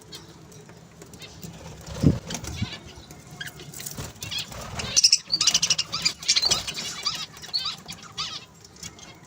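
Small pet parrots chirping in short, repeated high calls, busiest in the second half, with a burst of wing fluttering about two seconds in.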